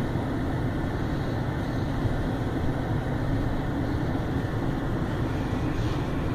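Steady rumble and rush of automatic car wash machinery, heard from inside the car.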